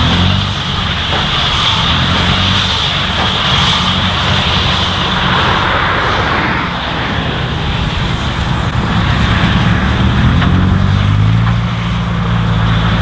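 Engine running steadily with a rushing machinery noise over it; the engine note rises slightly about ten seconds in.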